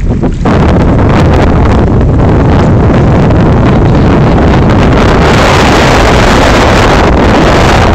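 Heavy wind buffeting the phone's microphone, a loud steady rumbling hiss that jumps up about half a second in.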